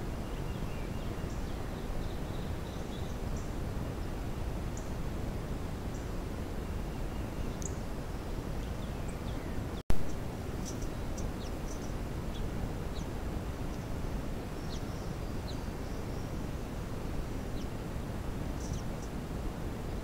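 Small birds chirping with short, scattered high calls over a steady low background noise. About halfway through, the sound drops out for an instant and then a sharp pop comes.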